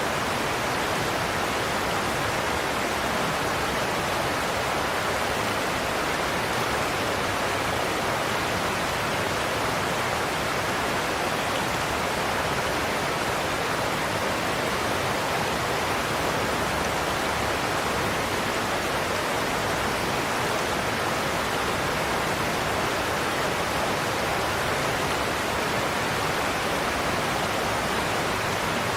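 Godafoss waterfall rushing steadily: an even, unbroken wash of falling water that stays the same throughout.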